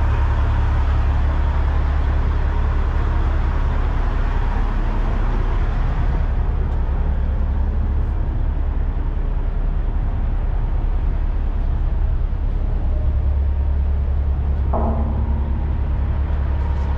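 Heavy diesel truck engine idling close by: a steady low rumble. A short higher tone sounds near the end.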